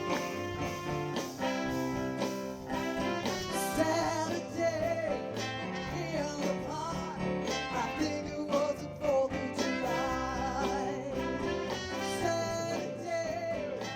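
A live soul band playing: guitar, bass and drums, with a wavering lead melody line over them.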